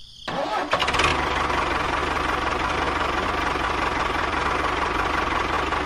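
A small motor starts up a moment in and runs steadily with a fast, dense rattle.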